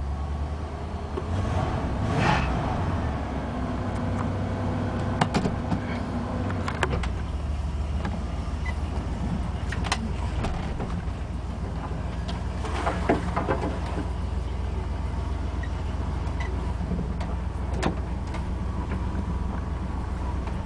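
1987 Ford F350's carbureted 351 Windsor V8 idling steadily just after a cold start, with the engine note changing about seven seconds in. A drive belt screeches briefly now and then.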